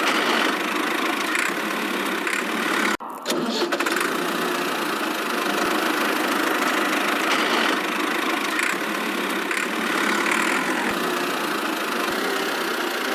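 Engine running steadily, with a sudden brief break about three seconds in.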